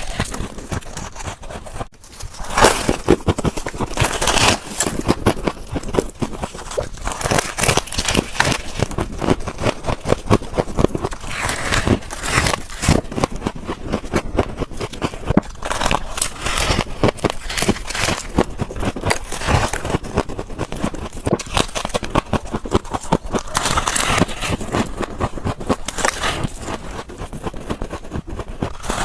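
Freezer frost ice being bitten and chewed close to the microphone: a dense run of sharp crunches and crackles, with louder bites every few seconds and a brief pause about two seconds in.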